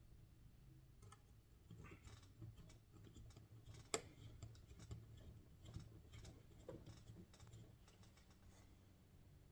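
Faint, scattered clicks and taps of small metal hardware and a hand driver being handled while a screw is fitted into a block nut on a model helicopter frame, with one sharper click about four seconds in.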